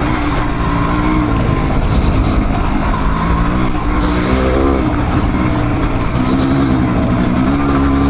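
Dual-sport motorcycle engine running while being ridden on a trail, its pitch rising and falling repeatedly as the throttle is worked, over a constant low rumble.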